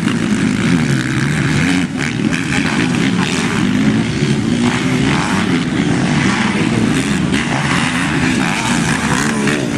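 Motocross bike engines revving, their pitch rising and falling continuously, loud throughout with a brief dip about two seconds in.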